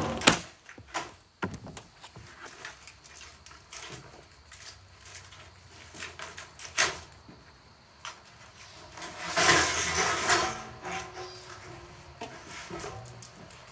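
Heavy metal and wood pieces being handled: a few sharp knocks, then a louder scrape or slide lasting about a second and a half, about two-thirds of the way through.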